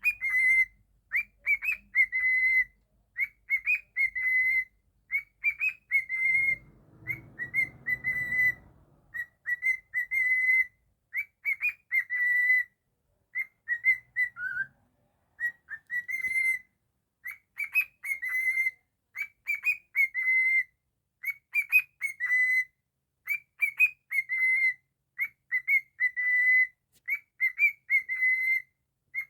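Cockatiel whistling the same short phrase over and over: a few quick upward chirps ending in a held clear note, repeated about once a second.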